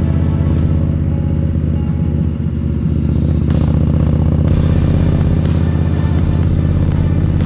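Indian Scout motorcycle's V-twin engine running steadily under way, easing off briefly about two seconds in.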